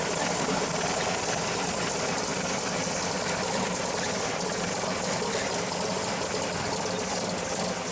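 Twin-turbocharged aluminum 615 cubic-inch big-block Chevy V8 idling steadily.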